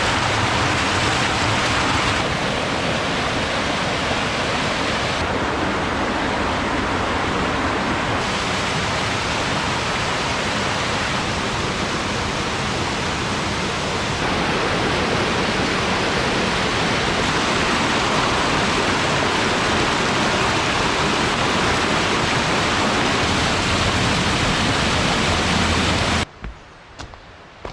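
Mountain valley stream rushing over rocks, a loud steady rush of water. Near the end it cuts off abruptly to a much quieter background with a few light taps.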